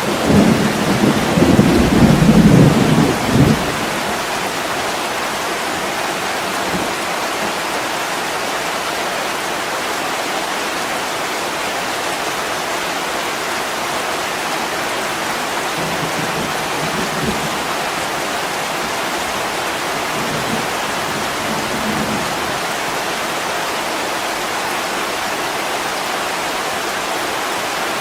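Steady heavy rain with a low rumble of thunder in the first three or so seconds, then fainter low rumbles around the middle.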